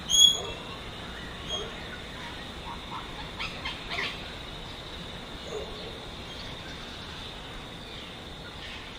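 Wild birds calling: one loud, short, clear call right at the start, a softer one about a second and a half in, and a cluster of short calls and chips around the middle, over a steady high thin hum.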